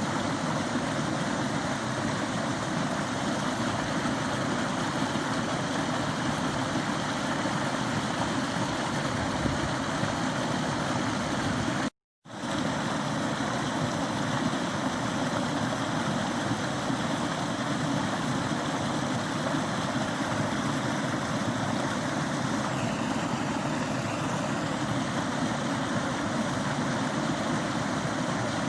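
Steady rushing of a small forest stream, water running over stones, cut off briefly by a silent gap about twelve seconds in.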